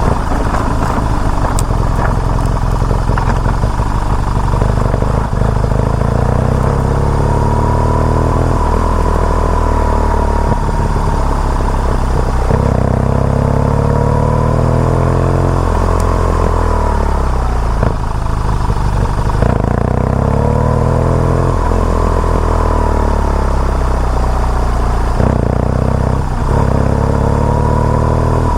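BMW R nineT Urban G/S's boxer-twin engine pulling on the move, its revs climbing and dropping again and again as the gears change.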